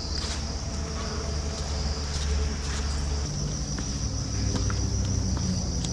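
Tropical forest insects, crickets or similar, droning steadily in one high band over a low rumble, with a few light clicks.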